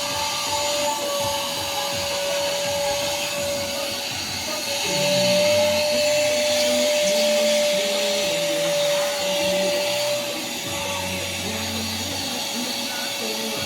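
Vacuum cleaner running steadily on a car seat's upholstery, its motor giving a constant high whine over a rushing hiss. It gets louder from about five to ten seconds in.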